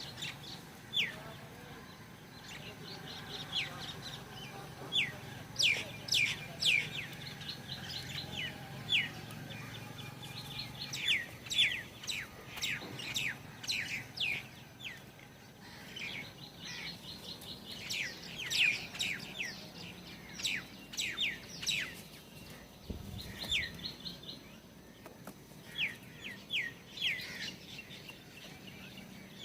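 Small birds calling: many short chirps, each falling quickly in pitch, coming in irregular runs.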